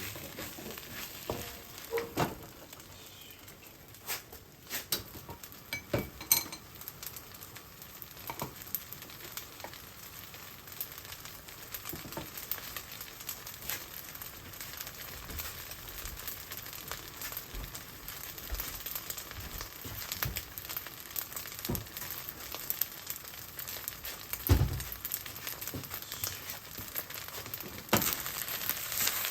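Fried rice sizzling in a frying pan, with scattered clicks and scrapes of stirring against the pan and one louder knock about three-quarters of the way through.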